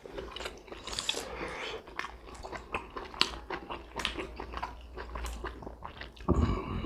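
Close-miked chewing and lip-smacking of people eating steamed pork momos: a run of small, irregular wet clicks, with a short louder burst near the end.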